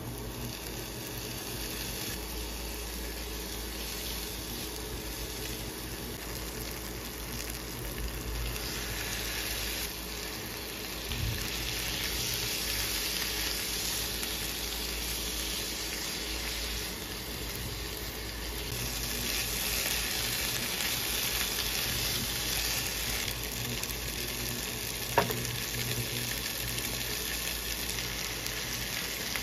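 Shallots, garlic, tomato and pork pieces sizzling and being stirred in a nonstick pan. The frying is a steady hiss that grows louder partway through, with one sharp tap about three-quarters of the way in.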